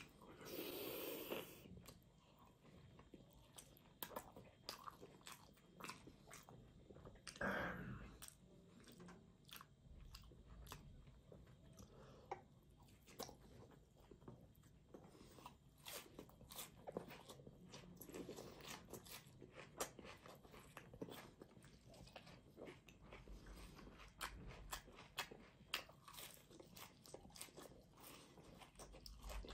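Close-miked eating sounds of a person biting, crunching and chewing roasted squash, raw onion, herbs and flatbread, with many small sharp wet mouth clicks throughout. Louder bites come about a second in and again around seven seconds.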